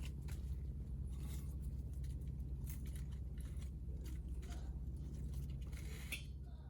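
Hinoki (Japanese cypress) offcuts burning, crackling with scattered sharp snaps over a steady low rumble.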